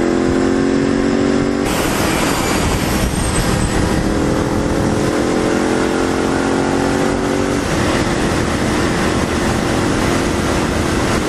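Ducati 848 L-twin motorcycle engine running under way, with heavy wind rush over the microphone. The wind gets louder about two seconds in. The engine note climbs slowly and then steps down abruptly about eight seconds in.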